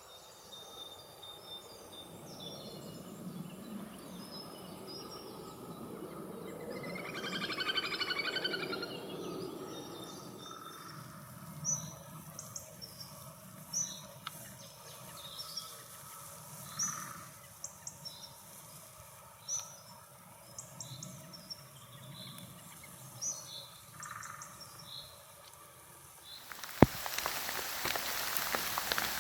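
Wild songbirds calling outdoors: a chattering call, then short high chirps repeated every second or two. Near the end a sharp click is followed by a steady rain-like hiss.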